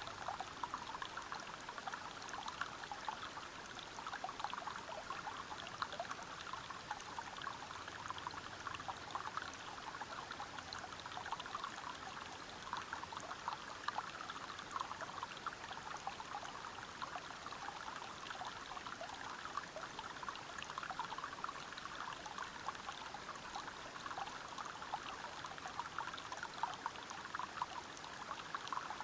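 Steady rush of water flowing over rocks at a small waterfall and river, a dense spattering of splashes without pause.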